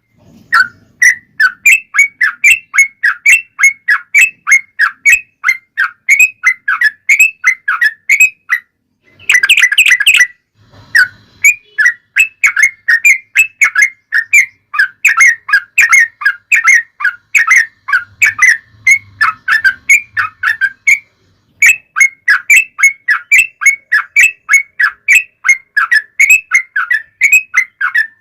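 Yellow-vented bulbul (trucukan) singing a long rapid series of short falling whistled notes, about three a second, in the chattering 'ropel' style used as a lure to make other bulbuls answer, with brief pauses near 9 s and again a little after 21 s.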